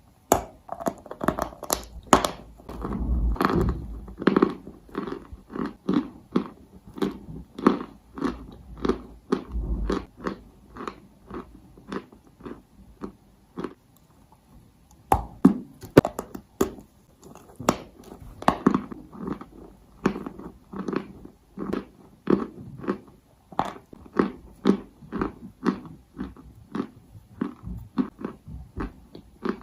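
Close-up chewing of chalk: a person biting and crunching pieces of chalk, with sharp crunches about once or twice a second.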